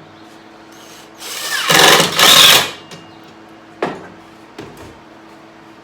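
Power drill driving a screw into wood in one run of about a second and a half, spinning up and briefly easing off partway, followed by two short knocks.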